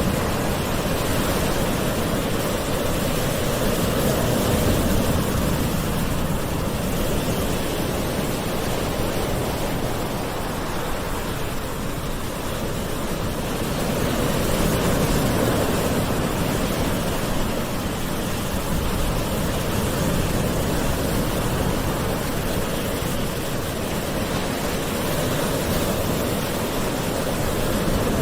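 Gentle sea waves washing ashore: a continuous rushing of surf that swells and eases slowly every few seconds.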